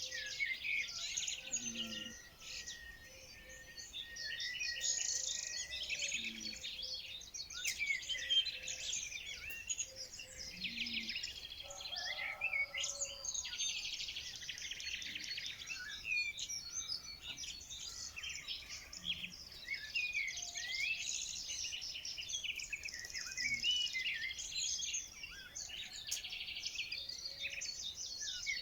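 A chorus of many songbirds chirping and singing at once, a dense, unbroken mix of quick overlapping chirps and trills.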